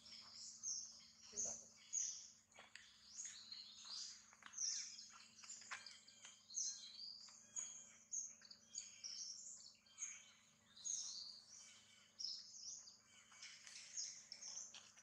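Small birds chirping and twittering over and over in high, quick, gliding notes, several a second.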